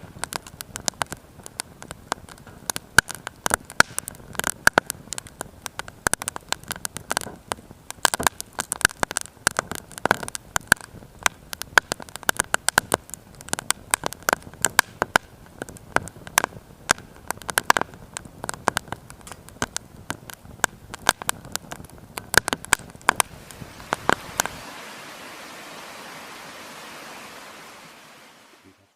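Firewood burning in a small Firebox mini stove, crackling with many sharp pops and snaps. About 24 seconds in, the crackling stops and a steady hiss takes over, fading out near the end.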